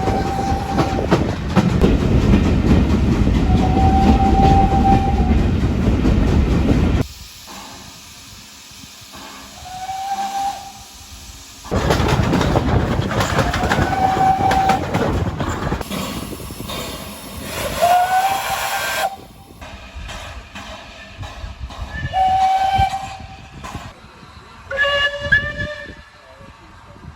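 Steam locomotive whistles sounding a series of short blasts, each about a second long, over the hiss and rush of the engine's steam. Near the end comes a whistle that sounds several pitches at once, like a chime whistle.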